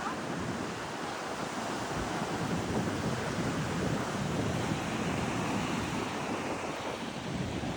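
Ocean surf washing on the shore, with wind blowing across the microphone.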